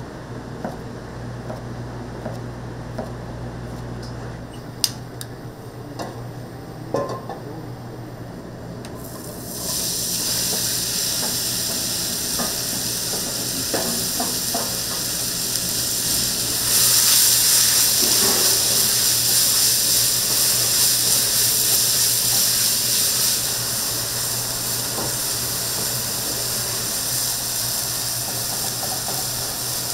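A few metal utensil clinks, then about ten seconds in food starts sizzling in a hot pan, steady and louder for several seconds in the middle.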